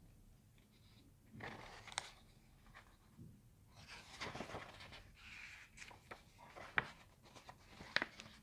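Handling noise: soft rustling with scattered sharp clicks and taps, the loudest clicks about two seconds in and near the end.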